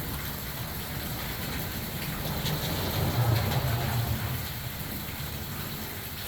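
Steady rain noise, with a low rumble that swells about three seconds in and fades a second or so later.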